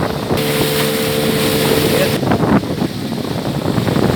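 Motorboat engine running under way, with wind buffeting the microphone. For about two seconds in the middle, a steady pitched tone and a bright hiss rise over it, then cut off suddenly.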